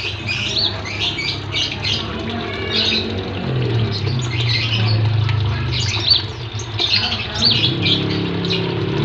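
Small songbirds in an aviary giving rapid, high-pitched chirping and squawking calls, with a steady low hum underneath.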